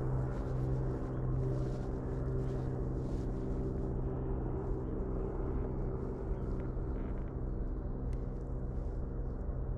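A steady, low motor drone holding one pitch with a stack of overtones, like an engine running at constant speed.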